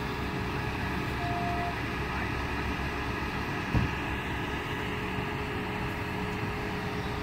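Vehicle engine idling with a steady low hum, and a single short knock a little under four seconds in.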